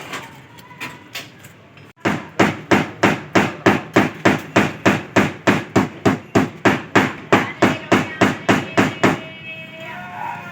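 A hammer beating steadily on the door hinge of a Maruti 800 to adjust a door that will not close. About two seconds in, a long run of sharp, evenly spaced blows starts, about three or four a second, and stops shortly before the end.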